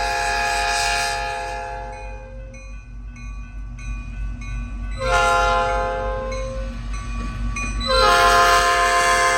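Freight locomotive air horn blowing a chord in long blasts for a grade crossing. One blast is already sounding and fades out after about two seconds, a second comes about five seconds in, and a third starts near the end and keeps going, over a steady low rumble.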